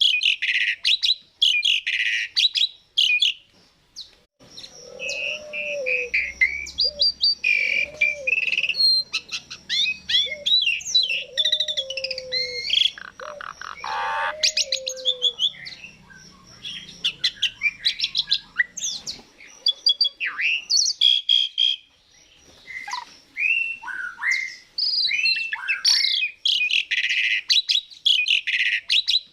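Javan pied starlings (jalak suren) singing: loud bursts of harsh chatter, then a long varied run of whistles, glides and chirps with some lower curved notes, then harsh chatter again near the end.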